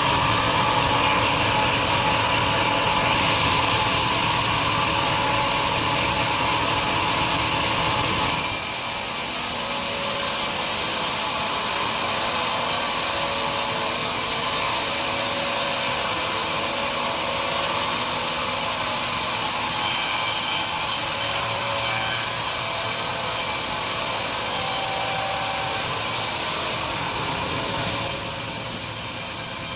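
Large band sawmill blade cutting lengthwise through a big log: a loud, continuous sawing hiss. The tone shifts with a brief jump in level about eight seconds in, and again near the end.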